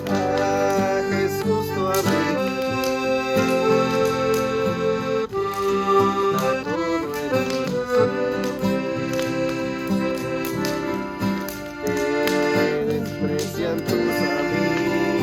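Instrumental music played on an accordion or a keyboard set to an accordion sound: a melody over held chords, changing note every second or so, with no singing.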